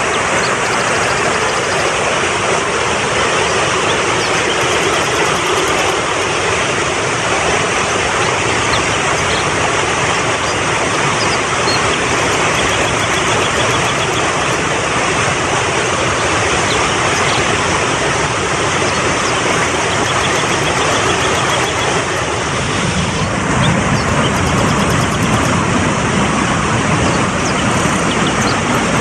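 Mountain stream rushing fast over rocks: a steady, dense water noise that grows fuller and deeper about 23 seconds in.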